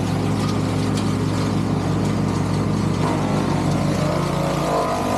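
Morbark wood chipper's engine running steadily.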